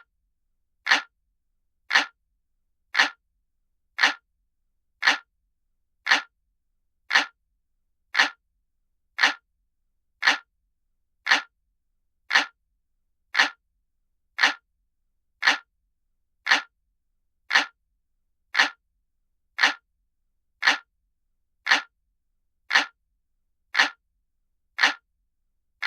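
Clock ticking sound effect: a sharp, dry tick about once a second, evenly spaced, with silence between the ticks.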